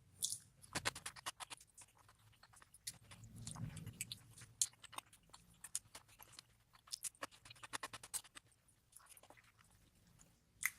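Close-miked chewing and mouth clicks of someone eating spicy rice cakes and kimchi, with a brief low hum partway through.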